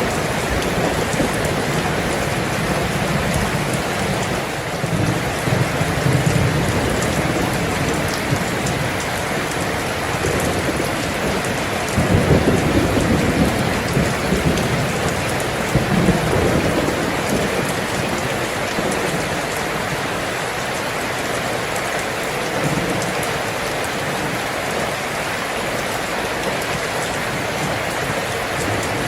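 Steady rain with low rumbles of thunder coming and going, the strongest about twelve seconds in.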